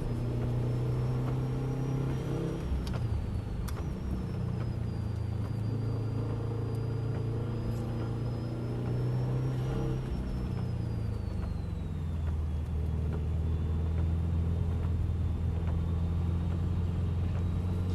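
Car engine running at part throttle on a circuit, its note dropping in pitch about 2.5 s in and again around 10 to 12 s in as the car slows, then rising near the end as it accelerates, over steady road noise.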